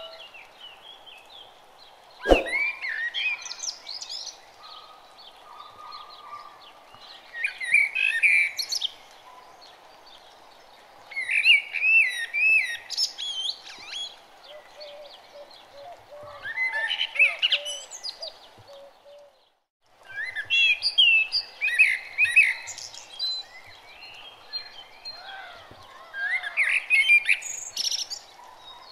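Birdsong: several birds chirping and twittering in bursts every few seconds over faint steady background noise. A single sharp click comes about two seconds in, and the sound cuts out briefly about two-thirds of the way through.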